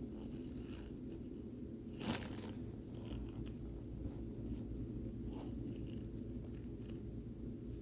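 Small scratches, clicks and crackles of soldering work on a circuit board, with one louder scrape about two seconds in, over a steady low hum.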